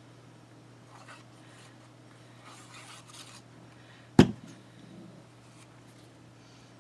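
Paper rubbing and sliding on a work surface in a few short strokes, then one sharp knock about four seconds in, over a low steady hum.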